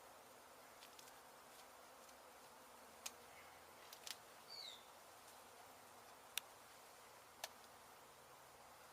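Faint, steady hum of a mass of honey bees buzzing around an exposed hive being cut out. A few sharp clicks come about three, four, six and seven seconds in, and a short high chirp a little after halfway.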